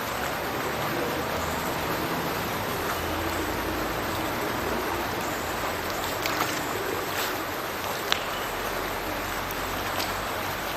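Small burn pouring from a culvert outfall and falling into a river below: a steady rush of splashing water, with a few sharper splashes between about six and eight seconds in.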